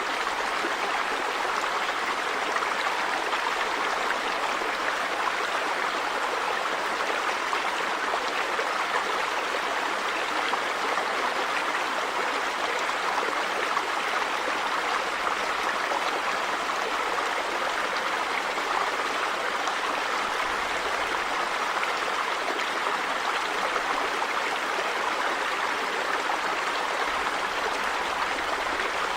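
River water running over rocks, a steady rush with no change.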